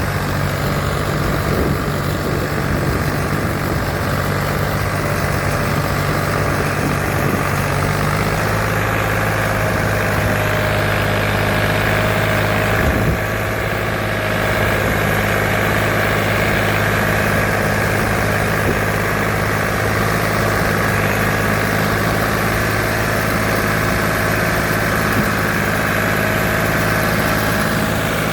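Same Minitaurus 60 tractor's diesel engine running steadily while working a ditcher. Its low note drops slightly about eight seconds in, and the sound dips briefly around thirteen seconds.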